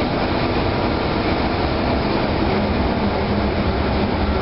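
Steady engine-room machinery noise from running diesel generator and pumps: a dense, constant drone with a steady low hum.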